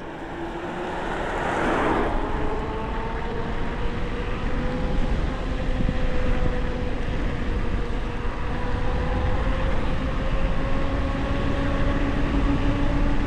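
Electric bike motor whining in several steady tones that climb slowly in pitch as the bike gathers speed, over a constant low rumble of wind and tyres. A brief rush of noise comes about a second and a half in.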